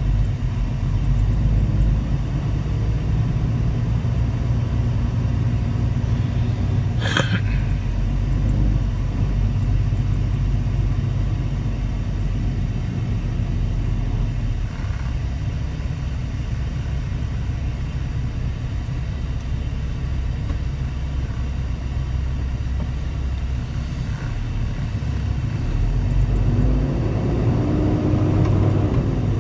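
Semi truck's diesel engine and road noise while driving, a steady low rumble. A single sharp click about seven seconds in, and a rising engine pitch near the end.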